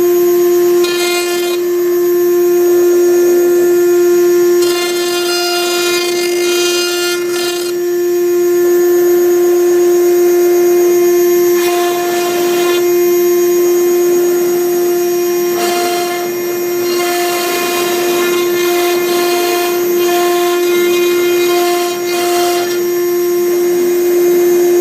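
CNC router spindle whining at one steady high pitch while a V-bit engraves MDF, with a rushing cutting noise and higher shifting tones that come and go every second or two as the machine moves between strokes.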